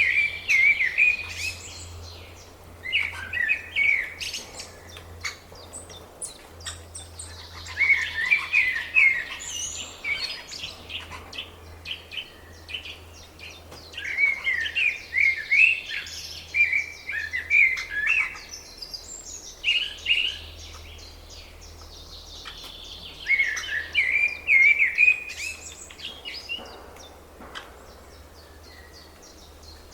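Songbird singing short, twittering phrases, repeated every few seconds, over a faint steady low hum.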